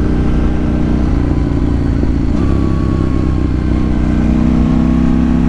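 KTM 790 Duke's parallel-twin engine running under steady throttle through a Remus aftermarket exhaust, the note getting a little louder about four seconds in.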